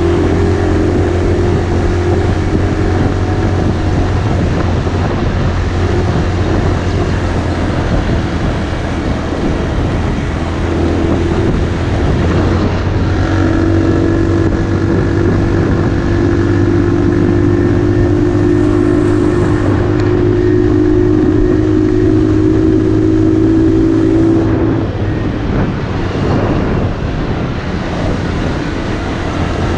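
Motorcycle engine running steadily while riding. Its note holds an even pitch and grows stronger through the middle, then eases off a little near the end.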